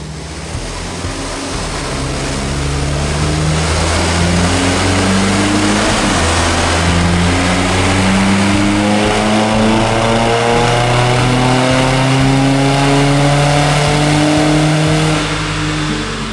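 BMW 123d twin-turbo four-cylinder diesel, stage 2 remapped with a downpipe and no particulate filter, pulling hard under load on a power dyno. The engine pitch climbs, drops back about six seconds in, then climbs again before the run tails off near the end.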